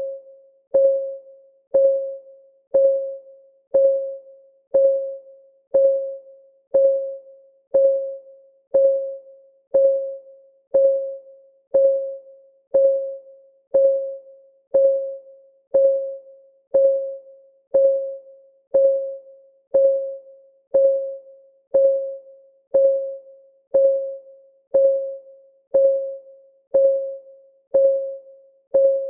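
Clock ticking sound effect: a short, pitched tick about once a second, each one dying away quickly, in an even, unbroken rhythm.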